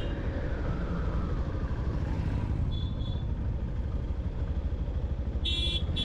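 Steady low rumble of wind and road noise from a motorcycle coasting downhill, with a short faint horn toot about three seconds in and a louder horn honked in quick pulses near the end.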